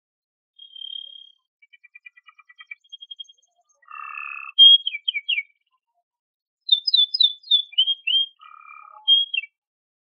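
Domestic canary singing a varied song in separate phrases: a short whistle, a fast ticking trill, then rapid falling chirps. After a short pause in the middle it sings another run of quick chirps and whistles.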